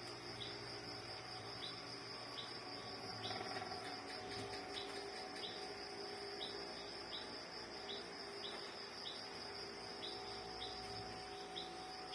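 Faint background insect chorus: a steady high trill with a short high chirp repeating roughly every half second.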